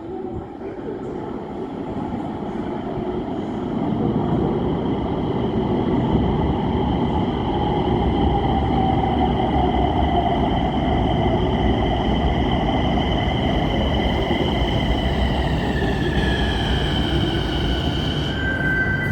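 Nagpur Metro train running, a steady rumble that grows louder about four seconds in. Over it the electric traction motors make several high whining tones: one falls in pitch about halfway through, and the upper tones shift near the end.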